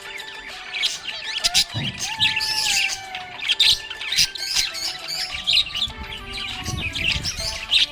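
A flock of budgerigars chirping and warbling in quick, overlapping chatter, with occasional squawks. Soft background music with a melody runs underneath.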